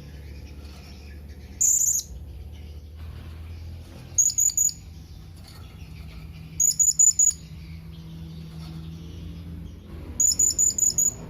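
Blue-crowned hanging parrot (serindit) giving high, shrill contact calls to its companions: a single call, then runs of three, five and six quick notes, over a faint low steady hum.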